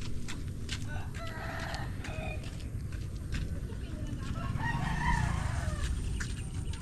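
Rooster crowing twice, about a second in and again past the middle, over a steady low rumble with scattered clicks.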